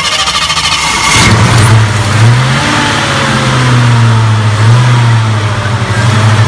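Classic Mercury Cougar's V8 engine running loud just after starting, settling into a steady low idle with a couple of brief rises in revs.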